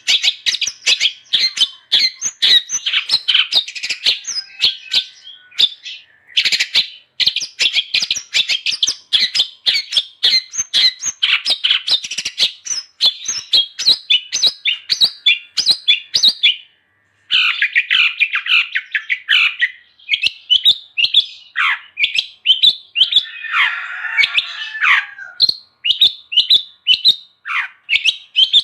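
Long-tailed shrike singing a fast, nearly unbroken chatter of short high chirps. There is a brief pause a little past halfway, and a harsh rasping call comes about two-thirds of the way through.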